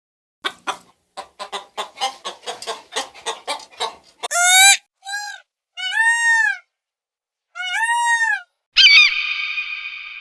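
Domestic fowl calling: a run of quick short clucks, then several loud, arching squawks, and two long held calls near the end.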